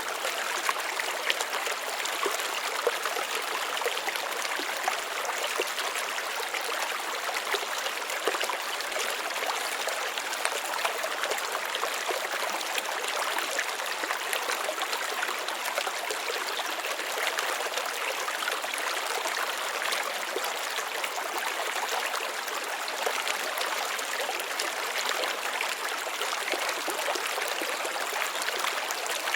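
Small stream of water trickling and splashing steadily over rocks, an even babble with fine crackle.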